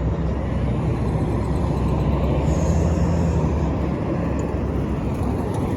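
Road traffic at a city intersection: a steady low engine rumble that swells a little about two to three seconds in.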